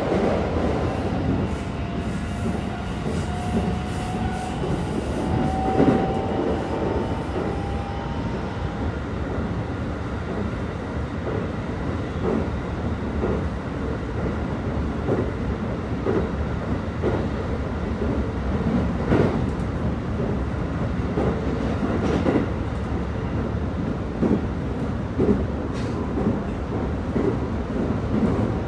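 Keikyu 1000 series electric train heard from inside the car while running at speed: the Mitsubishi full-SiC VVVF traction motors give a faint whine that rises slowly in pitch for the first several seconds, then fades out. After that there is steady rolling noise, with the wheels clicking over rail joints about once a second.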